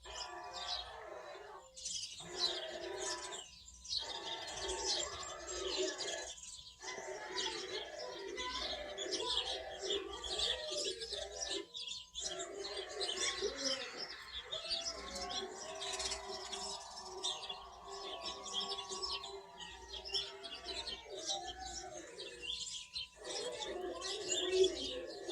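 A flock of sparrows chirping continuously, with many calls overlapping, and a dove cooing underneath.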